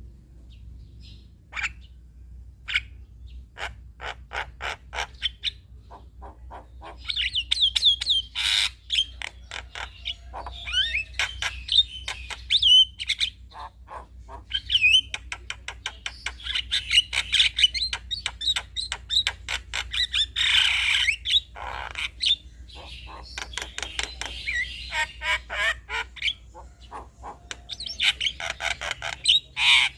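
Male Javan myna (jalak kebo) in full chattering song: fast runs of clicks and rattles mixed with whistled notes and harsh squawks, sparse at first and becoming dense and loud after about seven seconds.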